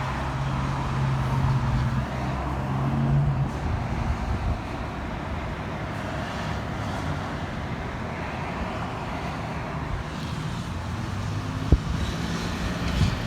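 Steady outdoor rush of road traffic and gusting wind, with a vehicle engine's low hum through the first three seconds or so that then drops away, and a single sharp knock near the end.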